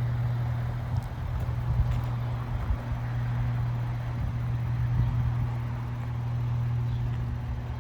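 Ford 6.7L Powerstroke V8 turbo-diesel idling steadily: a constant low hum over a rough, rumbling clatter.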